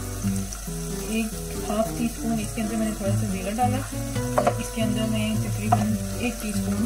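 Onion masala sizzling as it fries in melted butter in a nonstick pan, with a couple of sharp clicks about four and a half and almost six seconds in.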